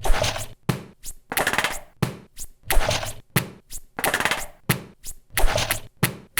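A rhythmic run of sharp, noisy percussive hits, each with a short decaying rush, about one or two a second, with quick clicks between them.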